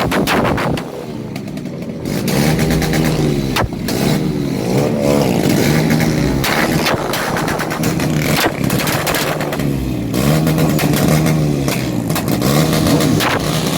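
Motorcycle engine revved hard again and again, its pitch climbing and dropping back several times, with sharp exhaust pops in between.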